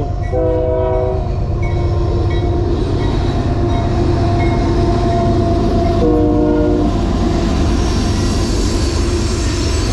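A train passing close by, its cars making a loud, steady rumble, with the train horn sounding two short blasts: one about half a second in and another about six seconds in.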